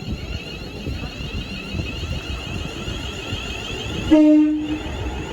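Train running through the station with a steady rumble and hiss, and a short horn blast on one steady note about four seconds in, the loudest sound.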